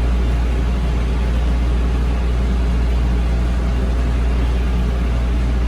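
A large engine running steadily at a constant idle, giving a loud, even low hum with a noisy wash over it.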